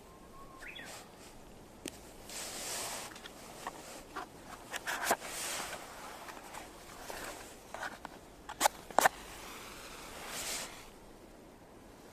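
Handling noise: intermittent rustling with scattered light clicks and knocks, and two sharp clicks close together about nine seconds in.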